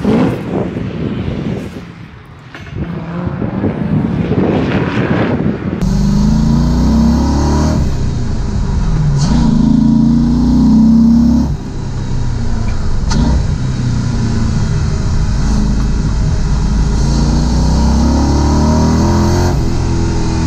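Audi V8 engine of a Porsche 986 Boxster driven hard on track, first heard passing from outside, then from inside the cabin. Its note climbs under throttle and drops back at each gear change.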